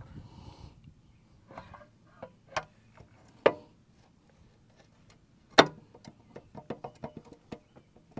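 Sharp metal knocks and clicks as the outboard's lower unit is worked against the midsection while it fails to line up. A few spaced knocks come first, the loudest about halfway through, then a quick run of lighter clicks.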